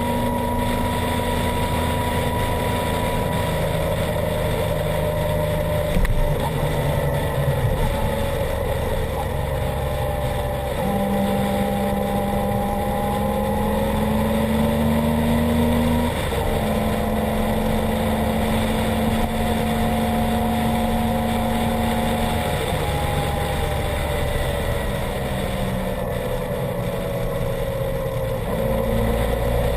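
2016 Triumph Explorer XCA's 1215 cc three-cylinder engine running through an Arrow exhaust while the bike is ridden. Its note holds steady, then steps up or down in pitch several times, over a steady rushing noise, with a brief knock about six seconds in.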